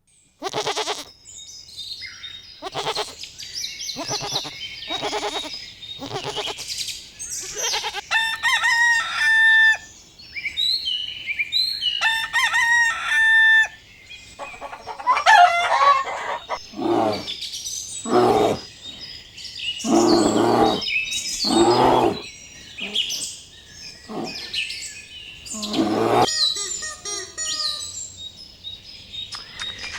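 Chickens calling, with a rooster crowing: a long string of separate calls, including two longer drawn-out calls in the middle and a run of louder, lower calls after that.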